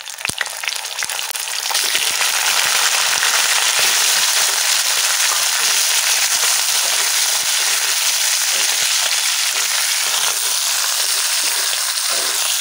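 Boiled chicken pieces frying in hot oil with dried red chillies and cumin seeds in a non-stick kadai, a loud sizzle that builds over the first couple of seconds as the meat goes in and then holds steady while it is stirred with a wooden spatula.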